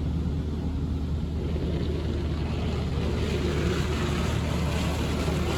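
Touchless tunnel car wash spraying the car, heard from inside the cabin. A broad hiss of water and soap striking the body builds from about two seconds in, over a steady low hum.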